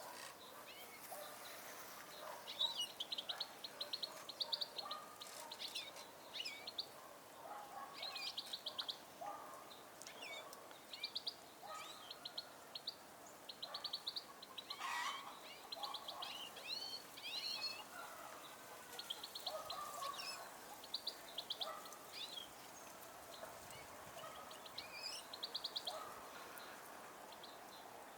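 Goldfinches calling and twittering: repeated short rapid trills and chirps, some overlapping, with brief pauses between phrases.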